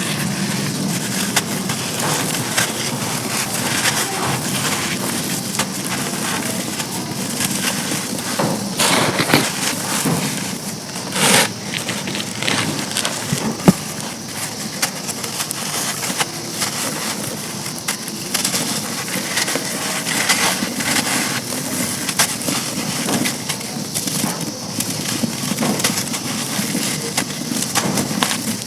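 Dry chunks of charcoal being crushed and crumbled: a continuous dense crunching and crackling, with a few sharper snaps around the middle.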